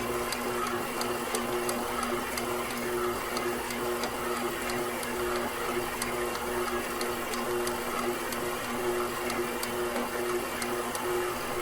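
KitchenAid Professional 6000 HD stand mixer's DC motor running steadily while its spiral dough hook kneads bread dough. A steady hum that wavers slightly in level, with faint light ticks.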